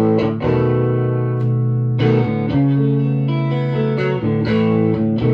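Electric guitar on its bridge pickup played through a Victoria 35310 tweed Bandmaster-style tube amp with three Jensen P10R speakers: chords struck every half second to a second and left to ring, loud.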